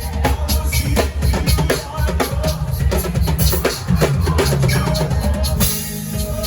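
Live worship band music with the drum kit to the fore: steady bass-drum and snare hits over a heavy bass line. Near the end the drum hits thin out under a sustained high wash.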